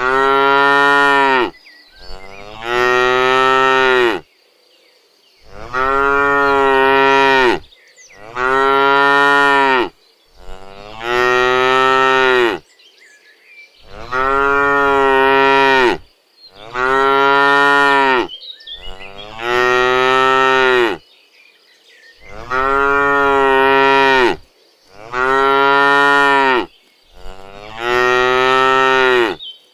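Domestic cows mooing over and over: about eleven long, loud moos, each lasting around two seconds, with short pauses between them.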